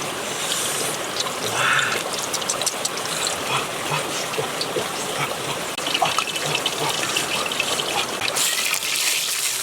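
Running, splashing water, with many small clicks and knocks through it.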